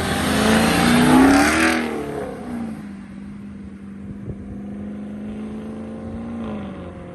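V8 of a ProCharger-supercharged Chevrolet Camaro SS accelerating away. The engine note climbs to a loud peak about a second in, together with a rushing sound, then eases back to a steady drone that drops in pitch near the end.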